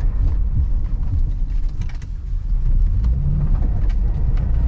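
Lada Niva's engine running with a steady low rumble, easing off about two seconds in and picking up again a second later.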